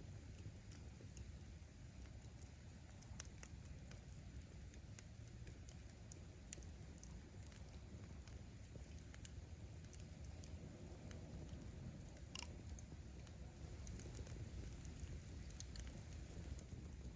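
Wood campfire burning: a low steady rumble of the flames with scattered sharp crackles and pops from the burning firewood, one louder pop about twelve seconds in.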